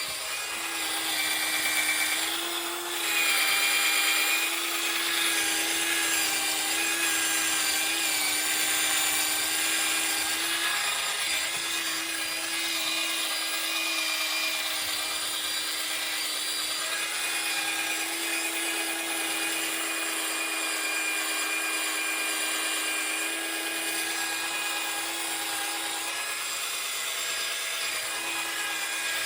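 A small electric power tool, a drill or rotary tool, running at a steady speed while buffing Autosol metal polish into an oxidised motorcycle fork leg. It gives one unchanging motor hum over a rough, hissing rub.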